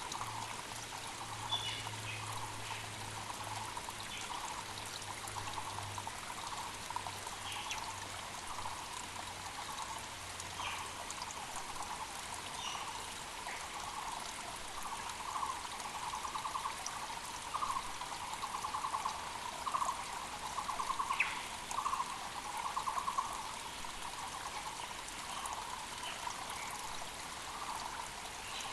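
Muller's barbets (Taiwan barbets) calling in long runs of rapid, pulsed notes, over the steady rush of a mountain creek, with short chirps from other birds. A faint low hum fades out in the first ten seconds or so.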